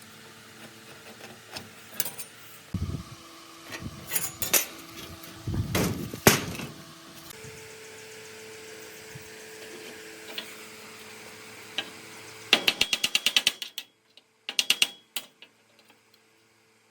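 Hand-tool work on metal: scattered knocks and clatter, then a quick run of rapid clicks about twelve seconds in and a shorter run a couple of seconds later.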